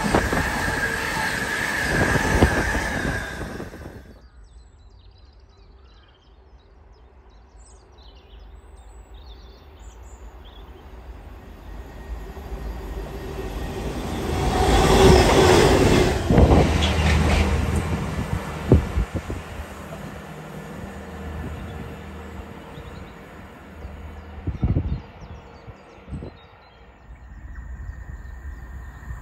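Intermodal container freight wagons rush past at speed with a steady wheel squeal, cutting off suddenly about 4 s in. After a short lull, a diesel engineers' track machine passes, louder around 15 s in, its engine droning low afterwards, with a few sharp wheel knocks from the rails.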